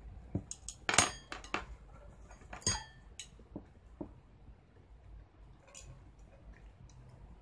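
Cutlery clinking and tapping against a dish in a quick run of sharp clinks over the first few seconds. The loudest comes about a second in, and one near the three-second mark rings on briefly.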